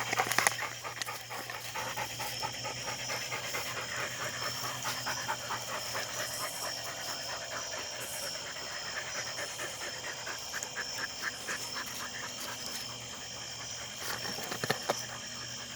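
Dogs panting hard in quick, rhythmic breaths, with a short knock near the end.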